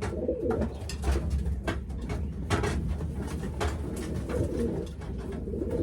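Racing pigeons cooing, low wavering calls that come and go, with many short clicks and rustles mixed in.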